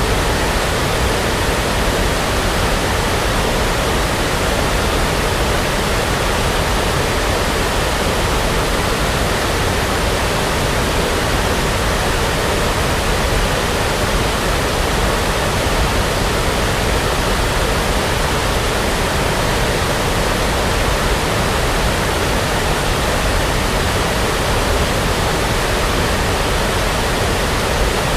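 Steady brown noise, an even hiss with no changes or events.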